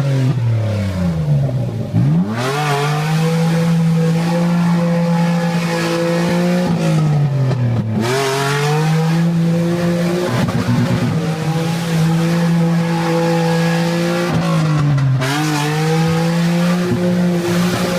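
Off-road 4x4's engine revved hard and held at high revs, the revs dropping and climbing back three times, the way it sounds when the vehicle is stuck in mud and spinning its wheels.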